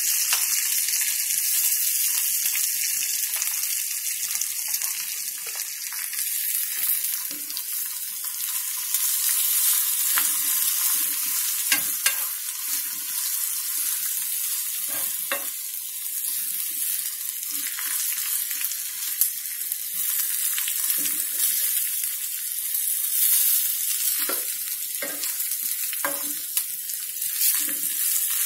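Freshly grated coconut frying in oil with red chillies and cashews in a kadai: a steady sizzle, with a steel ladle stirring and scraping through it and knocking against the pan now and then, more often in the second half.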